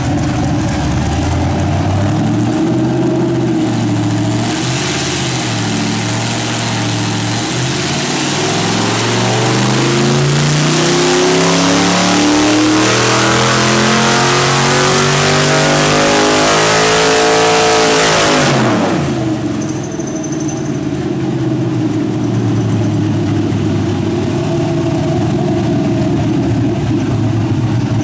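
6.0-litre LQ4 LS V8, fitted with 5.3 heads and a stage 2 cam, running loud on a hub dyno for a wide-open-throttle power pull. It starts at low revs, then the revs climb steadily for about fourteen seconds, the throttle shuts and it falls back to idle.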